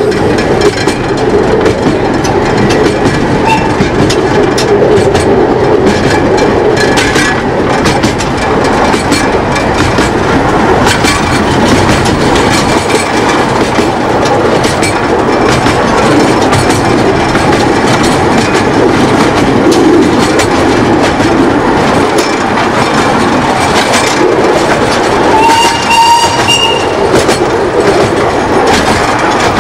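Miniature railway train running steadily, its wheels clicking over the rail joints. A brief whistle sounds about 26 seconds in.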